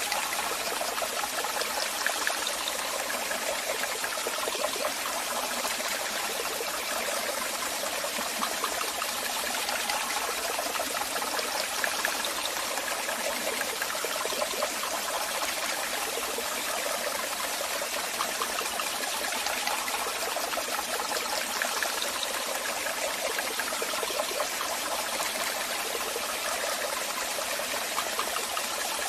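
Waterfall: water falling and splashing in a steady rush, with a fine splashing texture and almost no deep rumble.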